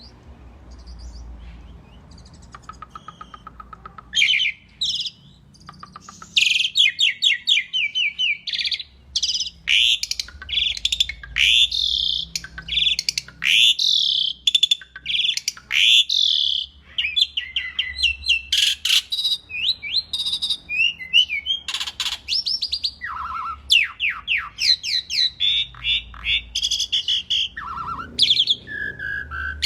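Asian pied starling (jalak suren) singing a loud, rapid, varied song of whistles, chatters and trills that starts about four seconds in, after a few seconds of faint low rumble.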